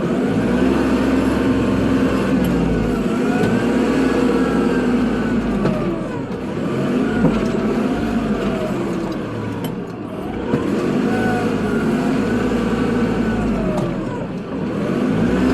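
Kubota tractor's diesel engine running under load while plowing snow, its pitch rising and falling again and again every few seconds.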